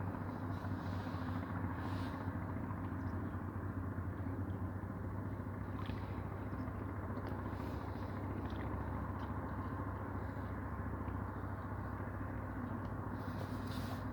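Ocean waves heard as a steady low rumble of surf, even in loudness with no distinct breaking crashes.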